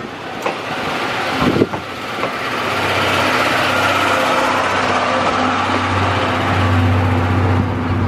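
Train running past the level crossing: a steady rumble, with a low hum that grows louder over the last few seconds.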